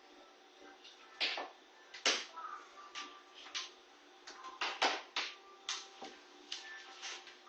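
A sleeping corgi snoring, about a dozen short, noisy snores at irregular intervals, some coming in quick pairs.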